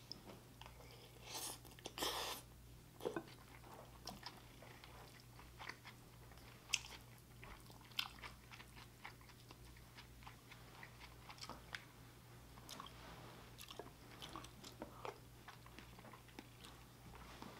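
A person chewing a mouthful of gyudon, soft sliced beef, rice and egg, close to the microphone: faint mouth sounds with many small scattered clicks and a few louder smacks about two seconds in. A steady low electrical hum runs underneath.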